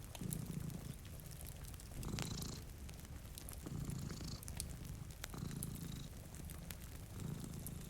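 Domestic cat purring, the low rumble swelling and easing with each breath about once every second and a half, with faint sharp crackles from a wood fire over it.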